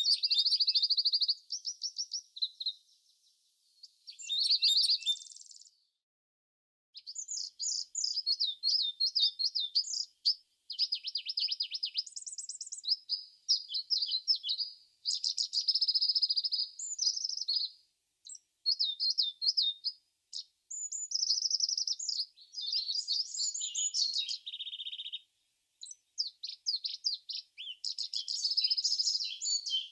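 Songbirds singing: a steady run of quick, high chirping and trilled phrases, one after another with short pauses between them.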